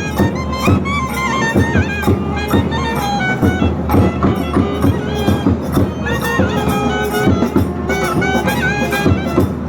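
South Indian temple procession music: a double-reed wind instrument, nadaswaram-like, plays a bending, ornamented melody over steady, fast drum strokes like a thavil.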